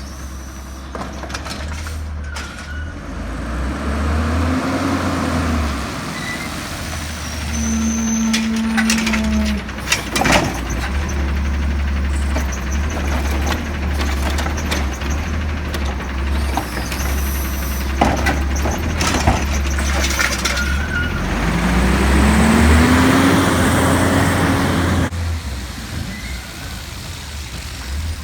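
Diesel engine of a recycling garbage truck running, rising in pitch twice as it revs to work the lift, with sharp knocks and clatter through the middle as a cart is emptied.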